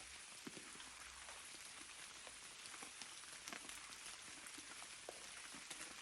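Faint steady rain falling, with many separate drop hits scattered through it.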